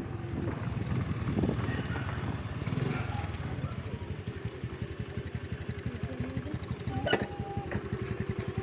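Small motorcycle engine running at low speed with a quick, even putter. A short sharp click comes about seven seconds in.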